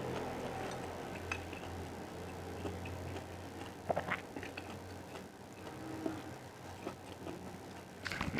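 Close-miked eating: scattered soft chewing clicks and mouth smacks over a low steady hum.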